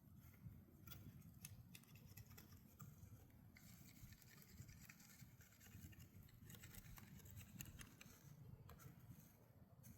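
Near silence: a faint low rumble with scattered soft clicks and scratches.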